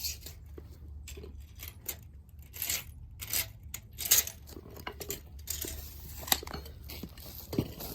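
Irregular light clicks, clinks and rustles of hand tools and fasteners being handled, with sharper knocks about four seconds in and again a little after six seconds.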